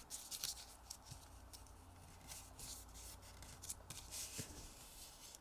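Origami paper being folded and creased by hand: faint, scattered rustling and scraping of paper.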